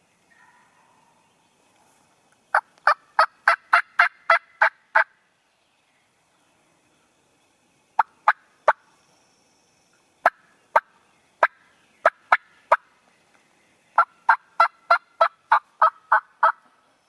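Turkey yelping: runs of sharp, loud notes about three a second. A run of about eight notes comes near the start, a few scattered notes fall in the middle, and a longer run of about ten comes near the end.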